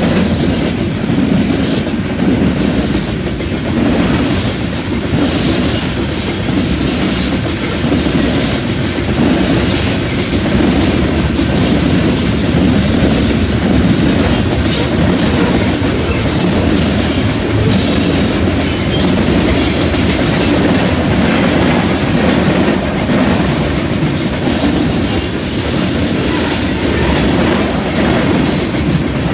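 Freight cars of a long mixed freight train rolling past close by: a steady rumble of steel wheels on the rails, with a constant run of clacks as the wheels pass over rail joints.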